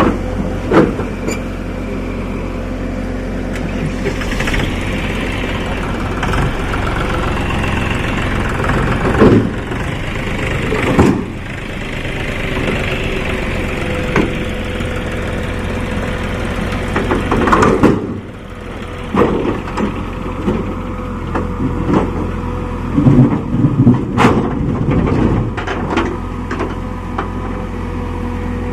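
Tractor engine running steadily, with several sharp knocks scattered through it.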